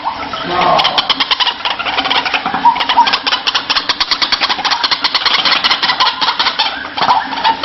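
White-breasted waterhen (ruak-ruak) calling: a fast, even series of harsh croaking pulses, about eight a second, starting about a second in and stopping near the end.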